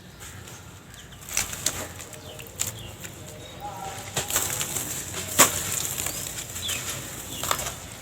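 Dry sand-cement lumps crumbling and breaking apart: irregular crunchy crackles and sharp snaps, the loudest snap about five and a half seconds in.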